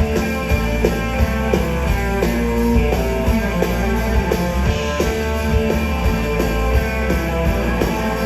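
Live rock band playing an instrumental passage: electric guitars, bass and drum kit, with no vocals.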